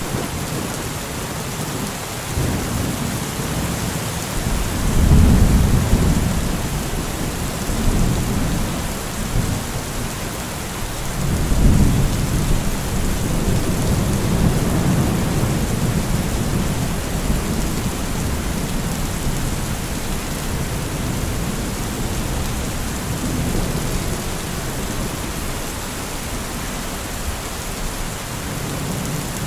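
Heavy rain falling steadily, with rolls of thunder rumbling low underneath; the louder rolls swell about five seconds in and again near the middle.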